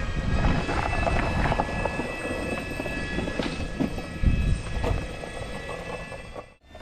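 The ride-on 'gigantor' in motion: a steady high-pitched whine over an uneven rolling rumble, cut off suddenly near the end.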